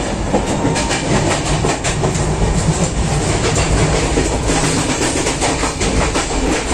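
Indian Railways passenger coach running along the track, heard from inside its toilet cubicle: a loud, steady rumble of wheels on rails with repeated clicks and rattles.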